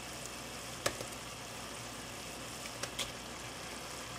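Onion and garlic sizzling steadily in a cast iron Dutch oven as roasted squash and red pepper pieces are tipped in from a glass bowl. A few short sharp clicks come about a second in and again near the end.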